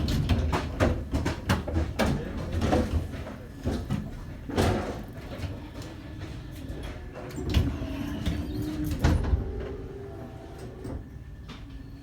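Düwag M8C tram running: a low rumble with many clicks and knocks from the wheels and running gear, and faint steady tones, easing off near the end.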